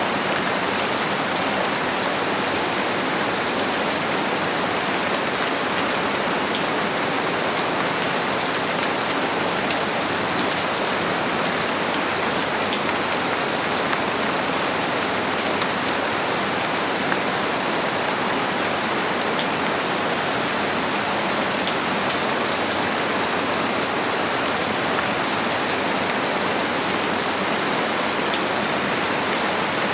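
Steady heavy rain falling, a dense, even patter of drops hitting surfaces.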